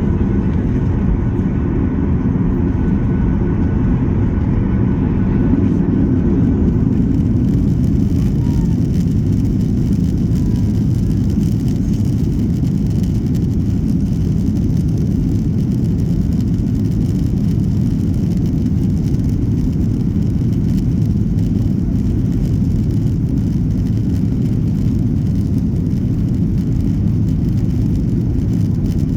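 Steady, loud low rumble inside the cabin of a Boeing 737-800, from its CFM56 jet engines and airframe, with faint higher tones that fade out about seven seconds in.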